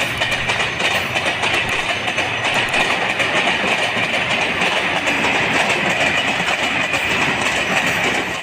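A train running on its rails: a steady rattle and rumble of the wagons, with the clickety-clack of wheels over the rail joints. The sound cuts off abruptly at the end.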